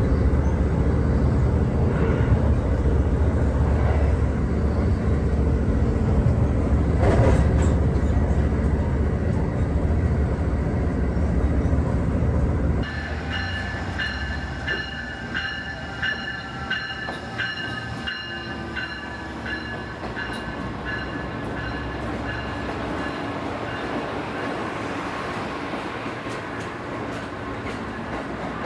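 Passenger train running, with a heavy low rumble. About halfway through the sound changes abruptly to a quieter ride with high steady squealing tones and light clicks from the wheels and brakes as the train slows.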